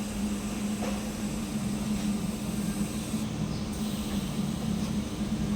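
Steady machine hum with a low, even drone and a light hiss.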